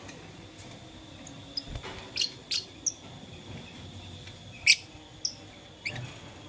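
Lovebird giving a handful of short, sharp, high chirps at irregular intervals, the loudest a little under five seconds in.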